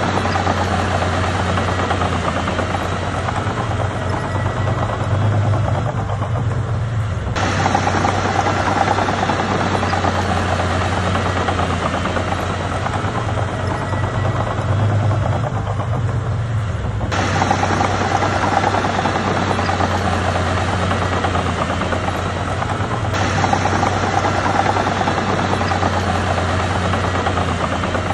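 Komatsu D31P bulldozer's diesel engine running steadily under load, with a strong low hum. The sound jumps abruptly three times, about 7, 17 and 23 seconds in, where the footage is cut.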